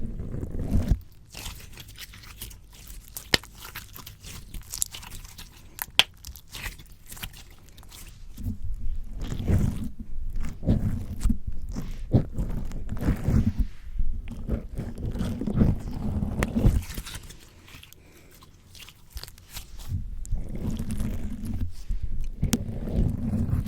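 Slime squished, pressed and pulled against a microphone: close, wet, sticky squelching with sharp pops and crackles. Louder spells of squishing come and go with quieter stretches of scattered clicks between them.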